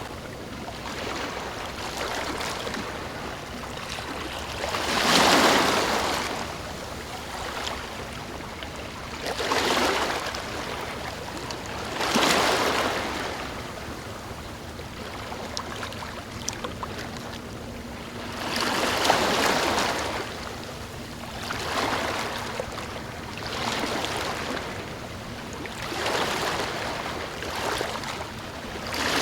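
Ocean waves washing in, with a louder surge every two to seven seconds over a steady wash of water between them.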